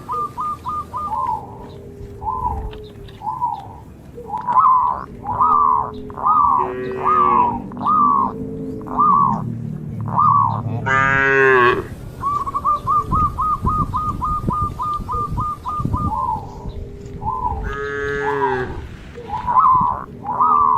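Cattle mooing: a long series of short, high, repeated calls, about one to two a second, broken by two quick trills. Two longer, louder calls come near the middle and near the end.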